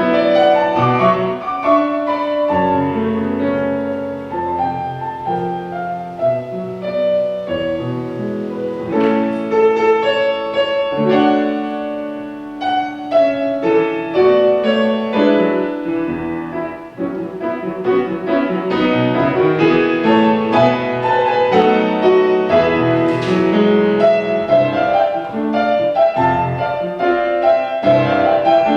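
Solo piano playing a flowing classical-style piece, chords over a moving bass line.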